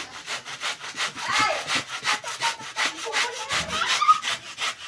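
Hand saw cutting through wood in quick, even back-and-forth strokes, about five or six a second.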